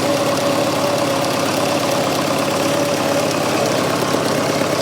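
Fordson Super Major's 3.6 L diesel engine idling steadily, an engine with heavy blow-by that is slobbering oil.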